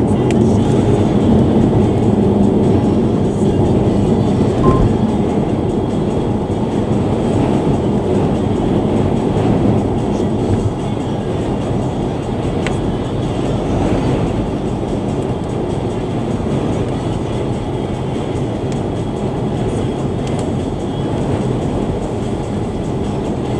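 Steady road and wind noise of a car travelling at expressway speed, heard from inside the cabin, with a deep tyre rumble. It eases slightly about ten seconds in.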